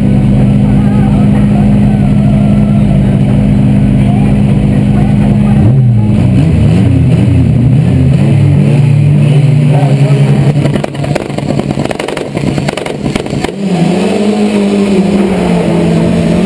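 A turbocharged drag car's engine running, heard from a camera mounted on the car. It holds a steady drone for about five seconds, then revs unevenly with the pitch rising and falling. It goes quieter for a few seconds past the middle, then settles back into a steady drone.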